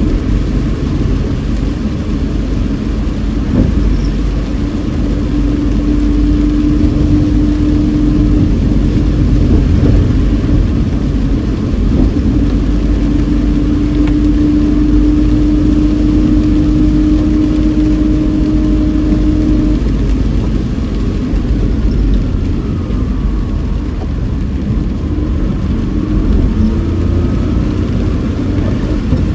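Car driving, heard inside the cabin: steady engine drone and road noise from tyres on a rain-soaked road. The engine's pitch shifts a little in the last few seconds.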